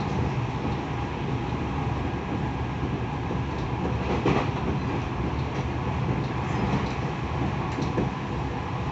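Tokyo Metro 10000 series electric train running between stations: a steady rumble of wheels on rail with faint steady tones, and a brief knock about four seconds in and another near the end.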